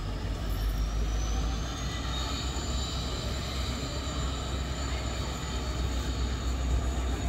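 Passenger train running: a steady low rumble with a faint high whine that rises slightly over the first couple of seconds, then holds.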